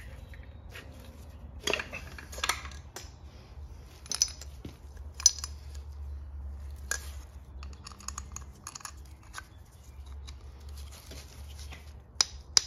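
Metal engine parts and hand tools clinking and tapping as they are handled during an engine teardown, with a few sharper knocks, over a steady low hum.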